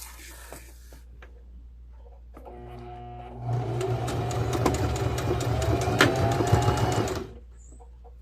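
Electric sewing machine stitching: it starts about two and a half seconds in, picks up speed, runs steadily for about four seconds and stops.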